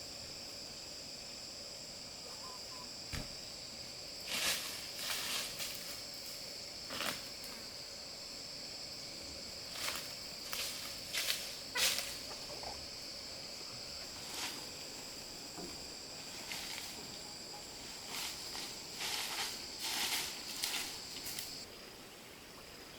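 Steady high-pitched insect chirring, which cuts off about a second before the end. Over it come irregular bursts of rustling and crunching, as of footsteps or handled dry leaves.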